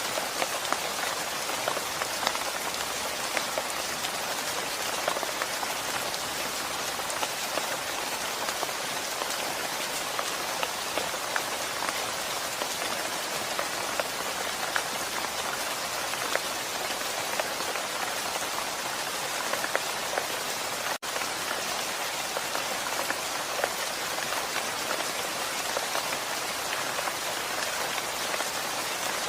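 Steady rain falling, a constant hiss with many individual drops ticking through it. The sound drops out for a split second about twenty-one seconds in.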